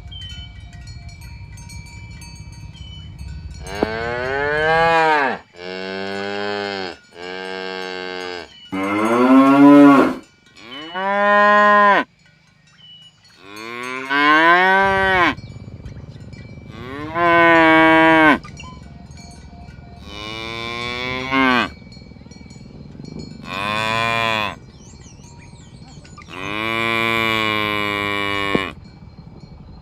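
Cattle mooing, about ten long moos one after another, each call arching up and then down in pitch; per the uploader, the cows are calling to their herd mates.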